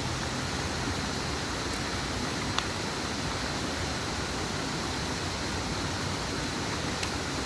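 Steady rush of flowing river water, with a single short click about two and a half seconds in.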